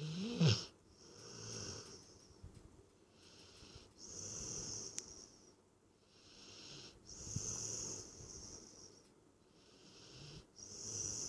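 Staffordshire bull terrier snoring in its sleep: slow, regular breaths about every three seconds, each with a hiss, and a louder pitched snore about half a second in.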